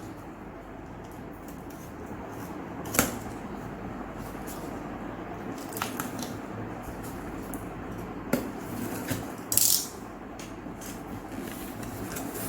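Cardboard product box being opened by hand: a few sharp knocks spread through, and a short loud rustling swish a little before the end.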